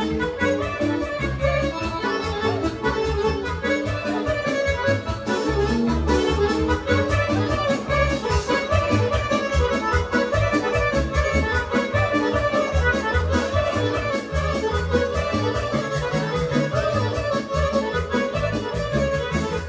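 Serbian folk music: a fast kolo dance medley with an accordion leading over a steady pumping bass beat.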